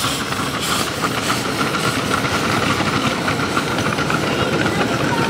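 Miniature railway train running along the track: a steady rattle of wheels on rail, with a thin high tone held through most of it.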